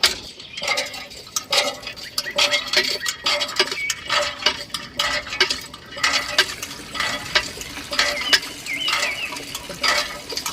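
Irregular clicking, tapping and scraping of small hard objects being handled.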